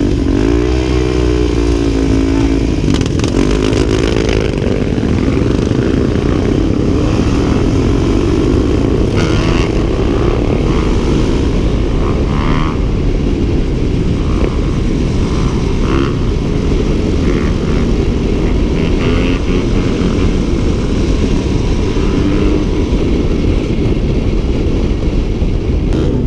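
Dirt bike engine running under way, its revs rising and falling in the first few seconds, with heavy wind rumble on the microphone.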